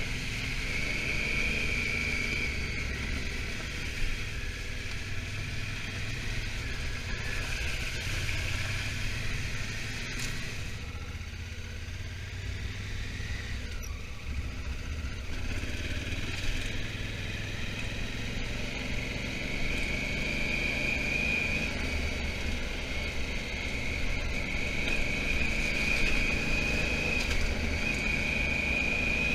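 Honda Africa Twin motorcycle engine running steadily while riding, with wind and road noise; the engine eases off for a few seconds near the middle, then picks up again.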